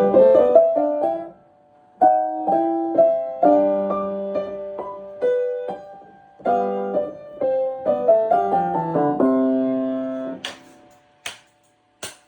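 Piano played in short phrases of notes, with a brief break about a second and a half in; the playing stops about ten seconds in, followed by three short clicks.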